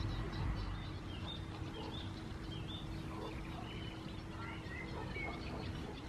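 Birds calling and chirping in short, quick, pitch-bending notes over a low outdoor rumble, with a faint steady hum underneath.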